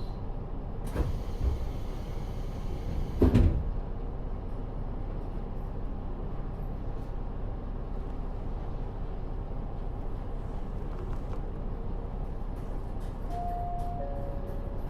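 Cabin of a KiHa 40 diesel railcar with its DMF13HZB engine idling steadily. A sliding door thuds shut about a second in, then louder a couple of seconds later. Near the end a high-then-low two-note chime sounds.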